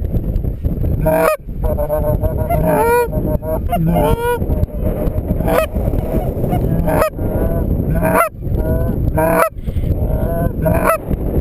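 Goose honks, many short calls repeated one after another, over a steady low rumble of wind on the microphone.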